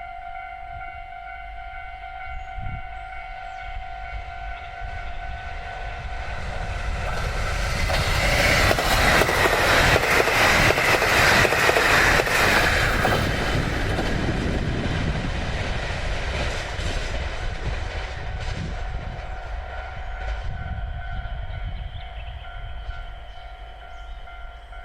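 A KiHa 261 series diesel express train passes through a station at speed. It builds to its loudest about eight to thirteen seconds in, then fades away. A steady tone of several pitches is heard before and after the train, drowned out while it goes by.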